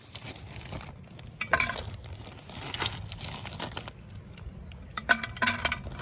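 Cooking gear and packaging being handled: scattered clinks and knocks of utensils and cookware with crinkling rustle, the sharpest knocks about a second and a half in and again near the end.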